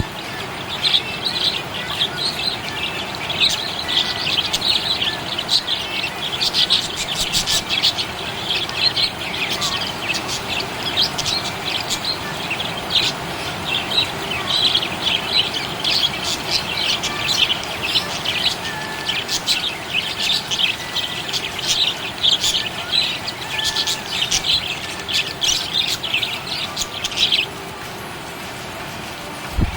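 Budgerigars chirping rapidly and continuously, falling silent shortly before the end.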